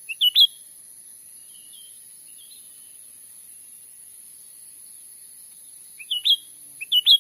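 Cucak ranting bird calling in short, high, upward-sweeping chirped phrases: one burst just after the start and two close together near the end, with fainter calls in between. A steady high-pitched hiss runs underneath.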